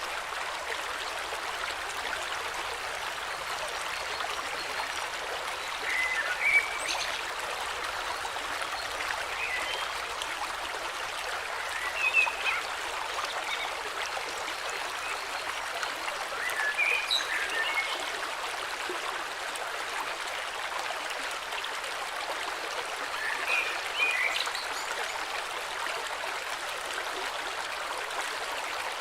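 Flowing river: a steady rush of water, with short bird chirps breaking in about five times.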